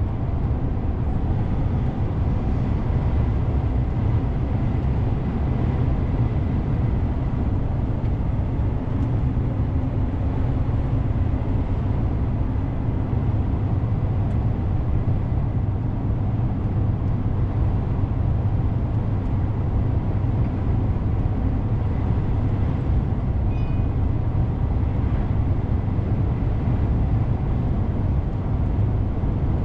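DAF CF 450 truck's six-cylinder diesel engine running steadily under way, with a constant low drone and road noise. A brief faint high tone sounds about three quarters of the way through.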